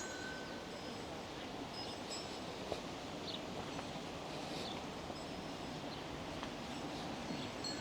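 Steady outdoor background ambience, a soft even hiss, with a few faint high chirps and light clicks scattered through it.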